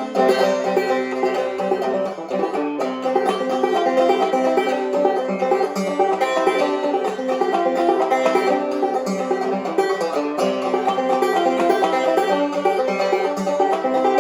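Five-string banjo played clawhammer style: an old-time tune picked in a steady, unbroken stream of notes.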